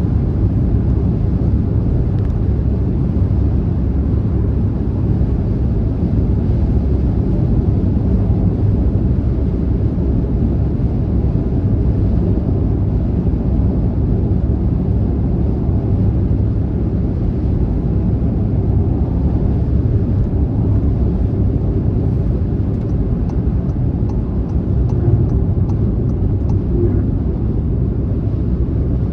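Car driving on a motorway at steady speed: a steady low rumble of tyre, road and engine noise.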